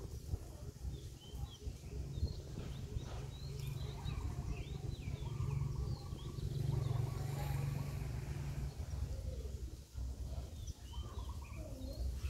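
Small birds chirping on and off over an uneven low rumble of wind on the microphone. A steady low hum rises in the middle for several seconds, then fades out about three quarters of the way through.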